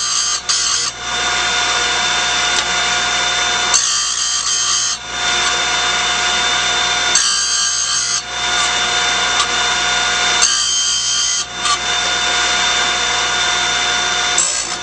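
Saw-blade sharpening grinder running steadily while its abrasive wheel grinds the carbide tips of a circular saw blade. Each tooth gets about a second of higher, harsher grinding, four times, roughly every three and a half seconds. These are the passes that grind the 10-degree bevel on every other tooth of an alternate-tooth blade.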